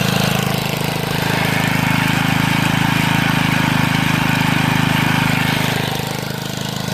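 Rototiller's small four-stroke engine running steadily as the tiller drives forward, easing off slightly about six seconds in.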